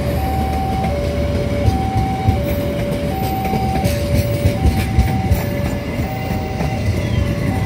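Indonesian passenger train coaches rolling past with a steady rumble and clicks of wheels over rail joints. Over it, a level-crossing warning signal sounds a two-tone alternating ding-dong, high and low tones taking turns about every two-thirds of a second.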